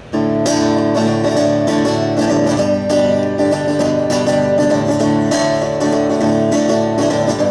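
Guitar strummed in steady rhythmic chords, the instrumental intro of a song played live; it starts right at the beginning after a brief pause.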